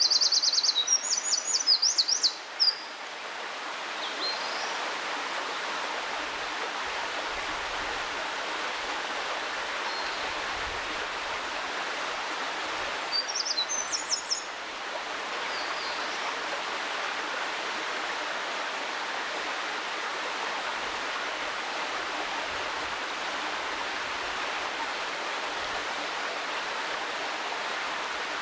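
Eurasian wren singing a rapid, high-pitched trilling song for the first two and a half seconds, with a shorter burst about 13 seconds in, over the steady rush of a mountain stream.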